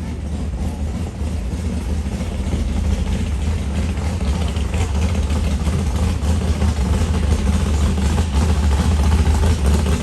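A car engine running with a steady low rumble, growing slightly louder toward the end.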